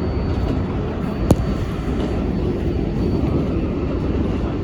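R188 subway train running between stations, a steady low rumble of wheels on rail and motors. A single sharp click about a second in.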